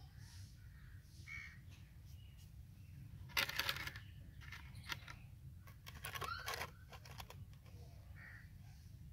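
Birds calling: a few short, harsh calls, the loudest a little over three seconds in and more between five and seven seconds, over a low steady rumble.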